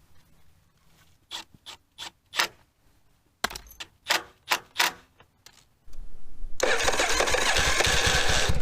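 A few sharp clicks and knocks of parts being handled. About six seconds in, the 1982 Yamaha Virago 750's air-cooled V-twin cranks briefly and catches, then runs loudly with an even, fast pulsing beat.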